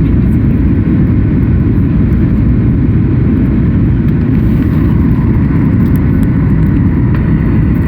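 Steady, loud low rumble inside the cabin of a Boeing 737 MAX 8 airliner during its takeoff and climb: the CFM LEAP-1B engines and rushing air, with a faint steady whine above the roar.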